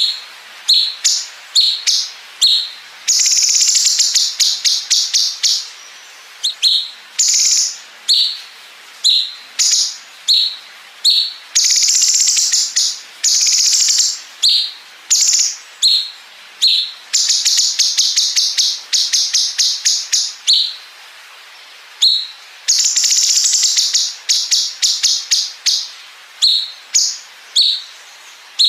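Cucak cungkok songbird singing: long, fast rattling trills of high notes (the 'bren' fill), each lasting a second or two, alternating with short sharp chirps again and again.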